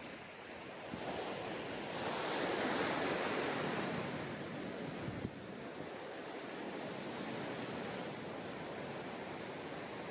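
Sea surf on a sandy beach: a wave swells in about a second in, washes loudest for a couple of seconds, then settles back into a steady hiss of surf. A brief tick about five seconds in.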